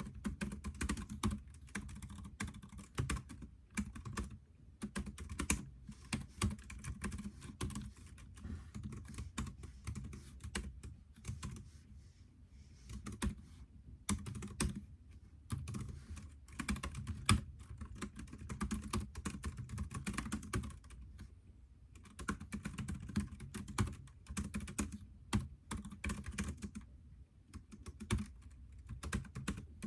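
Computer keyboard typing in quick irregular runs of key clicks, with a brief pause about twelve seconds in and another about twenty-one seconds in.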